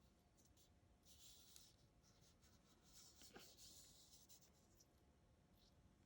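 Very faint rustling and scraping of paper cut-out letters being slid about on a tabletop, in two brief spells about a second in and around the middle, with near silence between.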